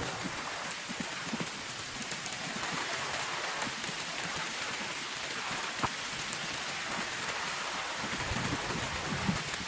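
Heavy rain falling steadily, with scattered louder drops ticking on a surface.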